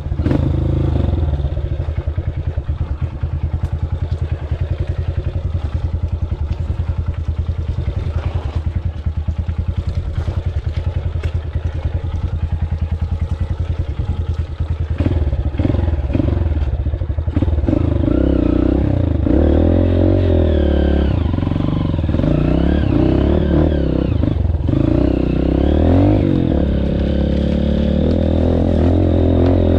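Honda CRF230F single-cylinder four-stroke dirt bike engine running: at low, even revs with a steady pulsing for the first half, then revving up and down through the gears from about halfway.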